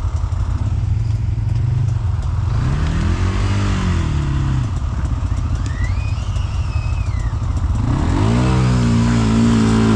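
Quad (ATV) engine running under load in four-wheel drive on a steep climb, revving up briefly about three seconds in, then rising again at about eight seconds and holding high. A higher whine rises and falls around six seconds in.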